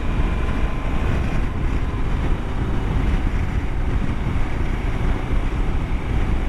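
Wind rushing and buffeting over the camera microphone on a moving motorcycle, a steady low rumble with road and engine noise mixed in.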